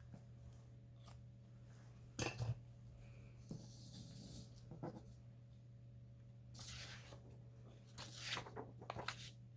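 Craft work on a desk: a few light knocks and taps, and brief scratchy rustles of paper being handled and rubbed, over a low steady hum.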